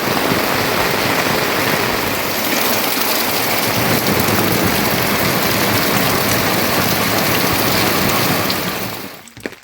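Rain pouring steadily, a dense even hiss that fades out near the end.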